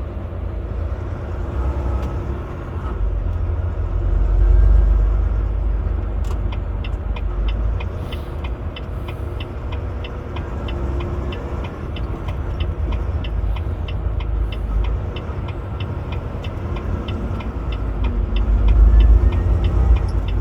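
Semi truck cab interior: steady low engine and road rumble. From about six seconds in, the turn signal clicks evenly, about three clicks a second, as the truck waits to merge into another lane.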